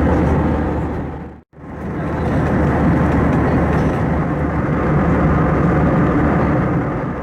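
Steady engine and airflow noise of an Airbus A321 with a low hum, dipping briefly to silence about a second and a half in and then fading back up.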